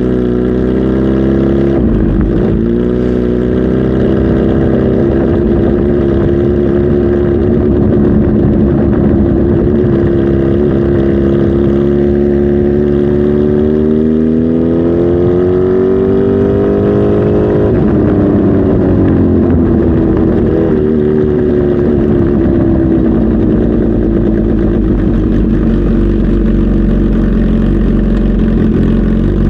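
Kawasaki Z H2 SE's supercharged inline-four engine running, its note rising slowly and falling back sharply about 18 seconds in.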